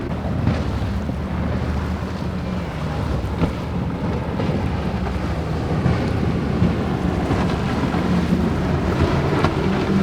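Motorboat engines droning steadily over the wash of waves, with wind buffeting the microphone.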